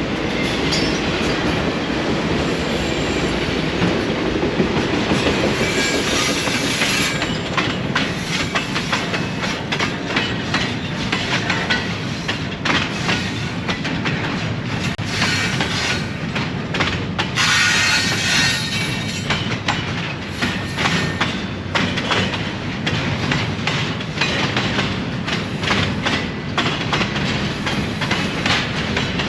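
Train rolling steadily past, its wheels clicking over the rail joints in a continuous clatter, with brief high wheel squeals now and then.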